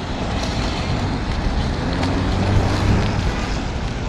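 Wind buffeting the microphone over the hiss of tyres on a wet road, heard from a moving electric scooter. A low hum swells briefly about halfway through.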